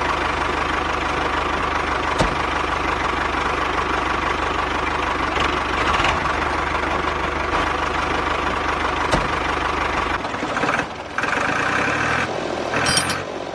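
Small electric motor of a homemade miniature tractor and threshing-machine model running steadily with a whirring hum; about ten seconds in its low end drops away and it carries on unevenly with brief dips.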